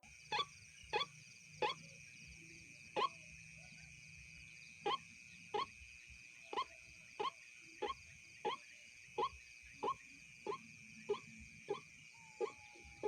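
White-breasted waterhen (ruak-ruak) calling: a faint run of short, clipped notes repeated about every half second to second, with one pause of a few seconds, over a steady high-pitched drone.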